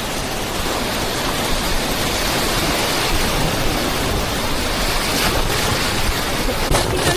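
Steady, even rush of river whitewater around the raft.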